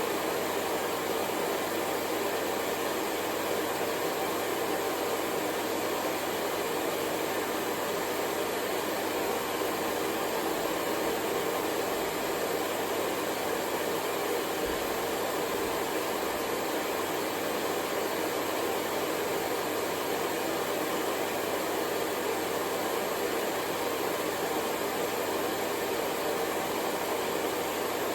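Hair dryer blowing steadily, a constant even whoosh with its strongest part in the middle range, played as white noise.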